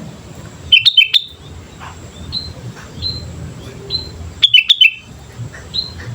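Sooty-headed bulbul (kutilang) singing: two loud bursts of quick chirping notes, about a second in and again just before the five-second mark, with single short whistled notes between them.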